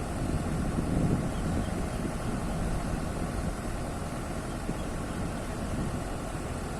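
A machine engine running steadily at low revs, a low continuous rumble that swells slightly about a second in.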